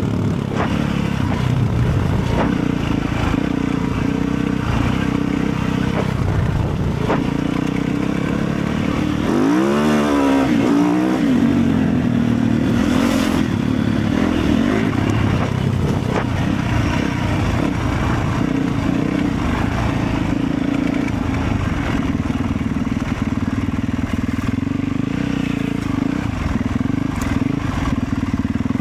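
Motorcycle engine running on the move, a steady loud rumble with scattered clicks and rattles. About ten seconds in, an engine note briefly rises and falls in pitch.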